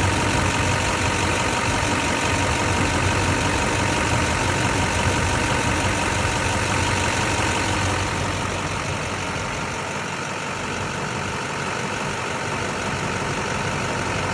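2004 Chevrolet Silverado 2500HD pickup's engine idling steadily after a cold start, becoming slightly quieter about eight seconds in.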